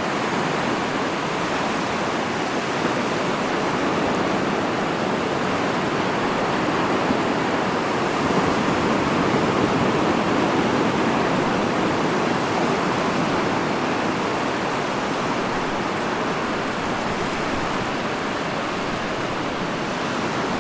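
Ocean surf: a steady rushing wash of waves that swells gently about halfway through and then eases.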